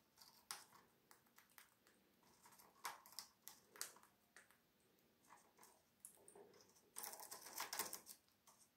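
Cockatiel's beak cracking and picking at a peanut shell: faint, irregular clicks and crunches that grow into a busier patch of crackling near the end.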